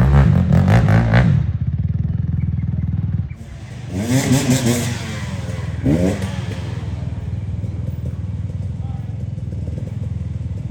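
Off-road 4WD engine pulling over a rocky track, with clattering and knocking from the vehicle over the rocks in the first second or so. The engine revs up a couple of times in the middle, then settles into a steady drone.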